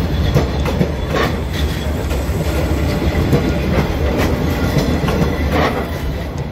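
Passenger train rolling past at very close range: a steady heavy rumble of the carriages, with the clack of wheels over rail joints coming several times at uneven intervals.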